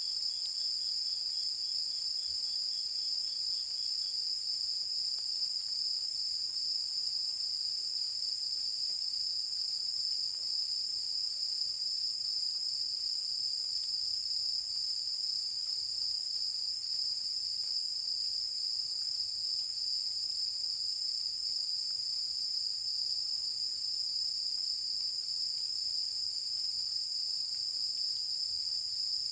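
Chorus of night insects singing continuously in a steady, high-pitched ringing trill. A fainter, lower, pulsed trill from another insect runs through the first few seconds.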